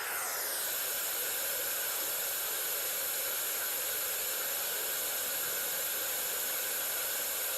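Steady hiss of a white noise generator, with its sound mostly in the upper range and little in the lows.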